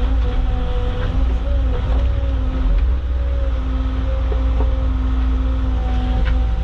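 Caterpillar excavator's diesel engine and hydraulics running steadily, the pitch shifting slightly as the machine works, with a few light knocks.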